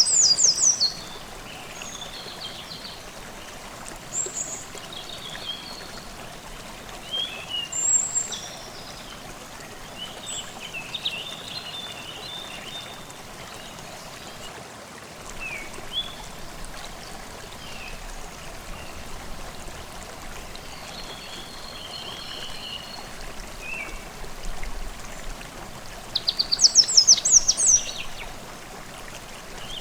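Forest stream babbling steadily, with several birds singing over it: scattered short chirps and whistles throughout, and a loud rapid trill at the start and again near the end.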